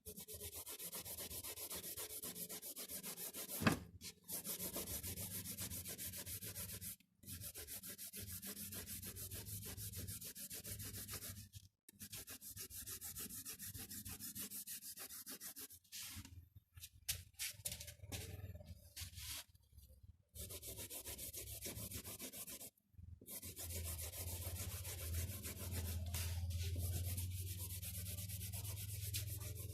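Rapid back-and-forth shading strokes of a drawing tool scratching on paper. They come in runs of a few seconds broken by short pauses, over a low steady hum that grows stronger near the end.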